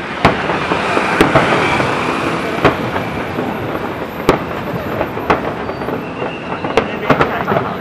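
Fireworks going off: a string of sharp bangs at irregular intervals, about ten of them, over a continuous crackle.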